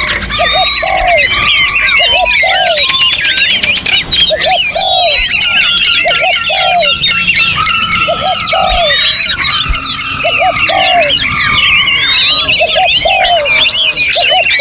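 Dense chorus of many songbirds singing at once, with quick chirps, trills and whistled glides overlapping. Under it, a dove coos a low, steady, repeated phrase about once a second.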